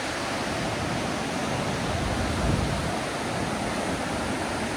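Steady, unbroken roar of rushing water.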